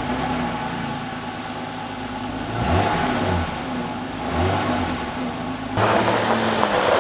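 Jeep Gladiator engine idling through its refitted factory exhaust with mufflers and resonator, blipped up in revs twice and settling back, a quiet, muted note. Near the end a louder rushing noise comes in.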